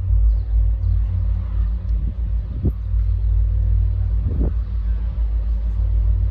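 Low steady rumble with a faint steady hum from a train approaching along the line, with two brief swells about two and a half and four and a half seconds in.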